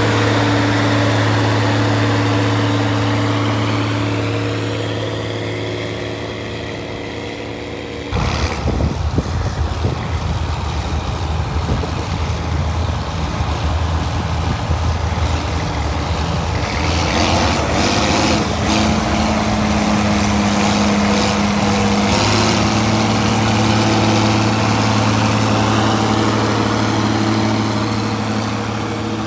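Large farm tractor engine running steadily under load in the field, fading off. About eight seconds in it switches abruptly to another tractor engine, rougher and louder, which settles into a steady drone in the second half.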